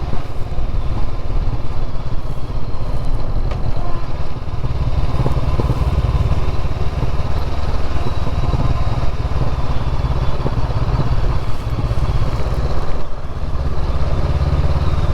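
Motorcycle on the move, its engine running steadily under a heavy low rumble of wind noise, dipping briefly near the end.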